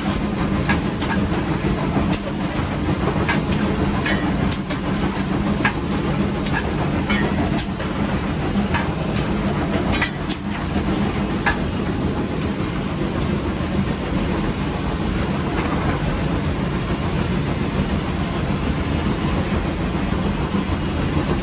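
Nevada Northern No. 81 steam locomotive running, heard from inside its cab: a steady low rumble and rattle, with scattered sharp clanks and clicks through roughly the first half.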